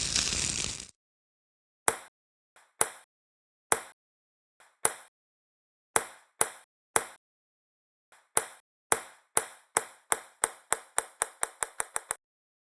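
A series of single sharp hits with silence between them. At first they come irregularly, about a second apart or in pairs. Then they speed up steadily into a quickening run that stops suddenly near the end.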